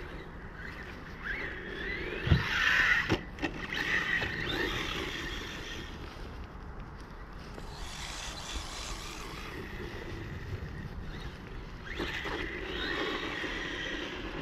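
The brushless electric motor of a 1/18-scale RC truck whining in bursts as it speeds up and slows down, with one sharp knock about two seconds in and another just after three seconds, as the truck hits the ground or an obstacle. Wind rumbles on the microphone underneath.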